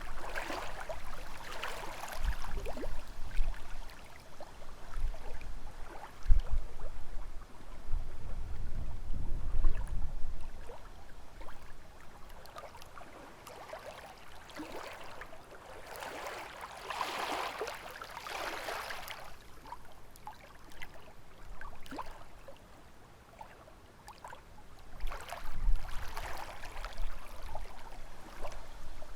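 Small lake waves lapping and splashing against the shore in irregular surges, loudest about halfway through and again near the end. Gusts of wind rumble low in the microphone now and then.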